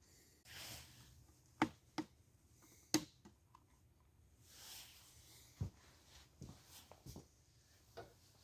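Light clicks and knocks of metal engine parts, the connecting rod caps, being handled and set up. There are a few sharp ones between about one and a half and three seconds in and another past the middle, with soft rustling in between. No machine is running.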